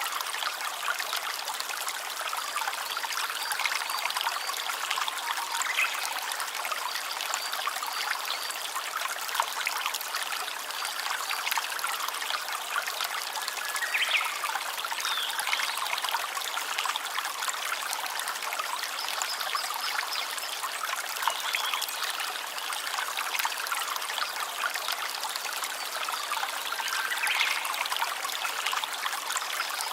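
A small stream trickling and babbling over stones, a steady splashing rush.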